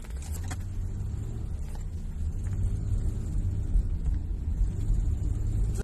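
Toyota Crown engine being revved with the throttle, a low rumble that grows slowly louder, carrying an abnormal noise that is most often exhaust pipe noise or valve bucket tappet noise.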